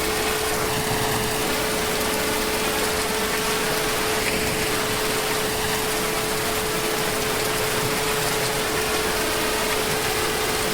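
Heavy rain falling steadily as an even hiss, with a faint steady tone underneath.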